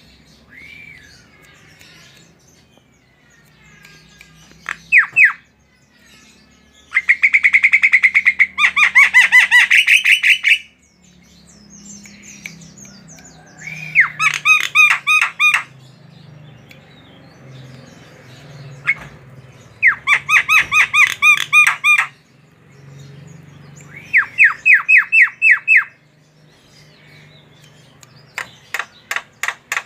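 Javan myna (jalak kebo) in full song: loud runs of rapid, sharp repeated notes, each run about two seconds long, with short pauses between. One longer run of about three and a half seconds comes near the start.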